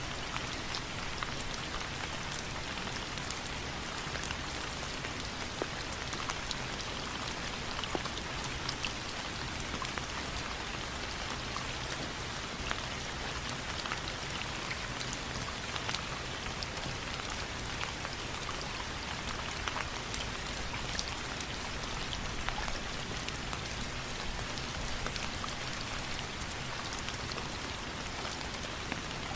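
Steady rain falling, an even hiss dotted throughout with scattered sharp ticks and pops.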